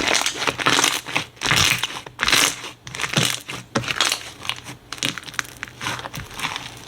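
Slime being squeezed and pressed by hand, giving crackling, crinkling noises in repeated bursts about once a second that grow weaker near the end.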